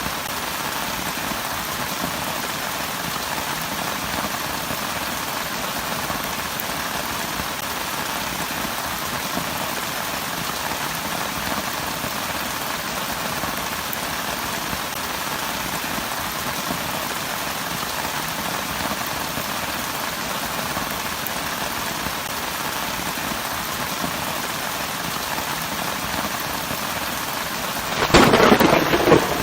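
Steady rain falling, then a sudden loud clap of thunder near the end that rumbles on.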